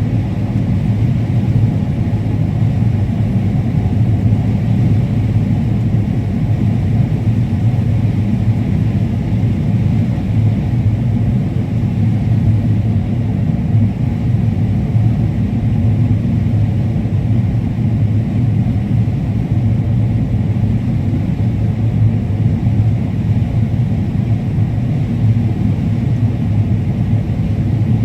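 Combine harvester running steadily while harvesting corn: a constant, even machine rumble.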